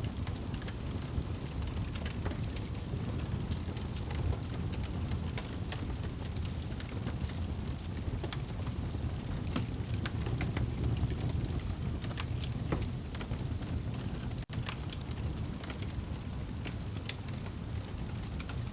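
Crackling fire ambience mixed with rain: scattered sharp pops and snaps over a steady low rumble and hiss. The sound cuts out for a split second about two-thirds of the way through.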